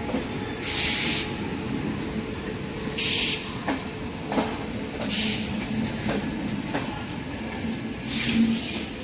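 Indian Railways locomotive-hauled express train pulling along a platform. A steady low rumble runs under wheels clacking over rail joints, broken by four short, loud bursts of hiss spread through.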